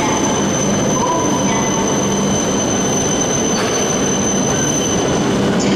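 Shinkansen train moving at a station: a steady, loud running noise with a thin high whine that stops shortly before the end.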